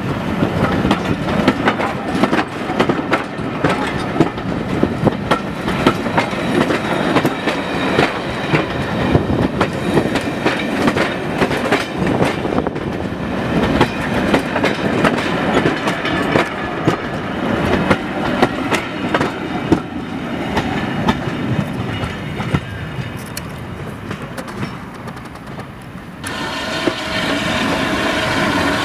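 Passenger coaches of a steam train rolling past close by, wheels clicking and clattering over the rail joints, easing off as the train draws away. About 26 s in the sound switches abruptly to a steam tank locomotive moving through the station, with a high wheel squeal.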